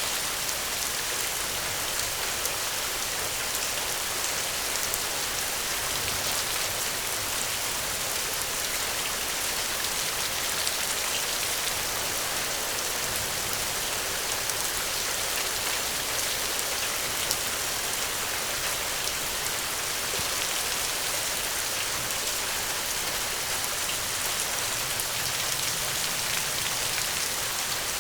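Steady rain, an even hiss with scattered drop ticks.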